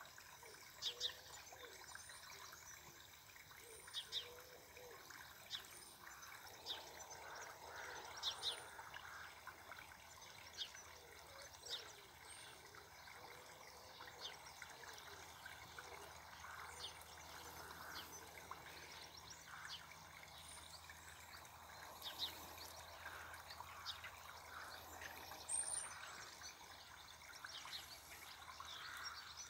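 Birds calling in short, high chirps every second or two over faint, steady background noise, with a faint low hum coming in about halfway through.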